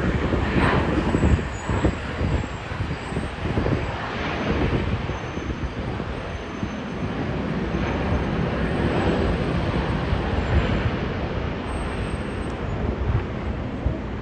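A steady, uneven vehicle rumble with no clear engine tone.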